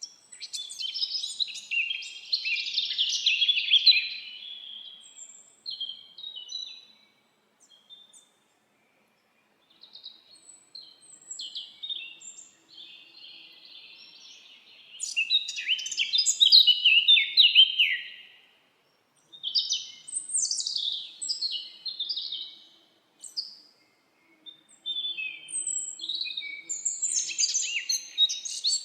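Several songbirds singing in phrases of quick, high chirps and warbles, with short silent gaps between the phrases.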